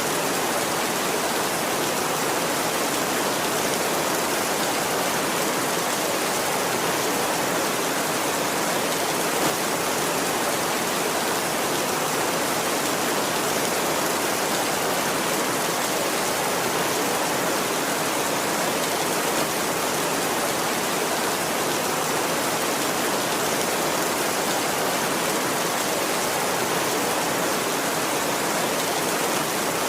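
Steady heavy rain, an even hiss of falling rain with no thunder.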